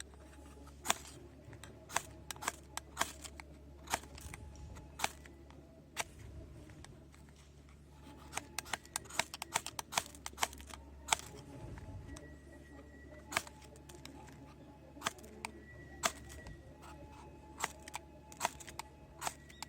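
Irregular sharp clicks and snaps, bunched into a quick cluster about halfway through, over a faint steady low hum.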